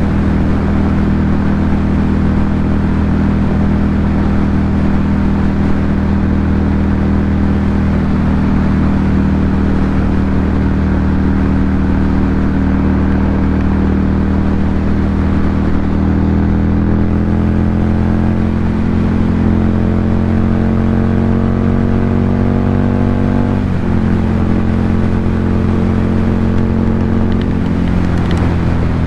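2018 Ducati Monster 797's air-cooled L-twin running loud through an aftermarket SC Project exhaust. It holds steady revs, then a little over halfway through the revs climb for several seconds, drop abruptly and settle steady again.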